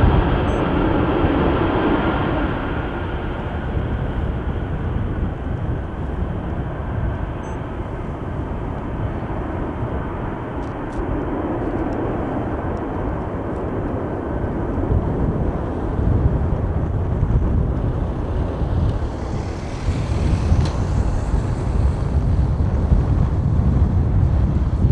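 Jet engine noise from a Boeing 747-400 freighter's four engines: a steady low rumble with hiss, growing somewhat louder in the second half, with a higher hiss coming in near the end.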